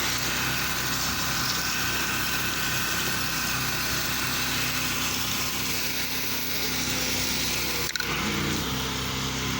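Small gas engine of a pressure washing rig running steadily under an even hiss of spray. About eight seconds in the sound briefly drops out, and the engine note then slides to a new pitch and holds.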